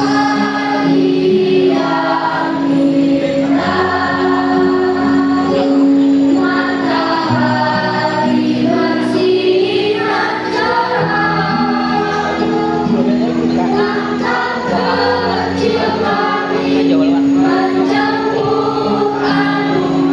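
Junior high school choir singing a song with long held notes, over steady low notes from an instrumental accompaniment.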